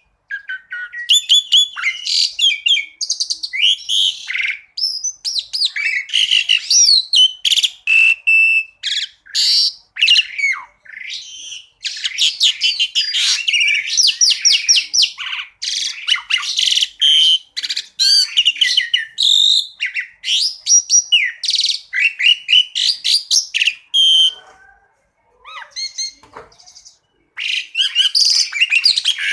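Asian pied starling (jalak suren) singing a fast, varied song of chirps, whistles, trills and sharp 'shot' notes, breaking off briefly about three-quarters of the way through before starting again.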